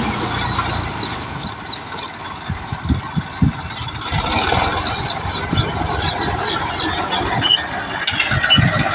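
Tractor engine running, with many short, high-pitched squeals over a rough low rumble.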